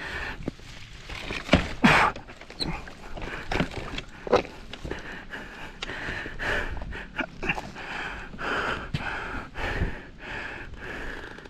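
A rider breathing hard and straining while hauling a fallen dirt bike upright, with repeated scrapes and knocks of boots and bike on the ground.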